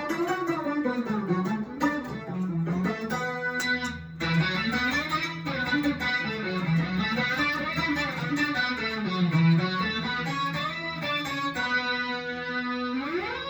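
Electric guitar through a Boss SY-200 synth pedal on its PWM Lead preset, a pulse-width-modulated synth lead tone, playing a lead line with bends and vibrato. It ends with a slide up in pitch near the end.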